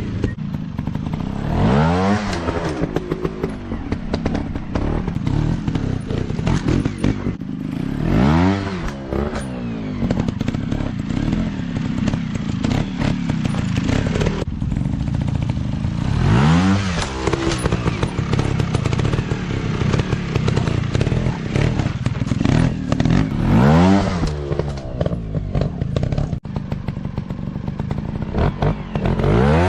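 Small single-cylinder dirt bike engine running, revved hard about five times, each rev a quick rise and fall in pitch.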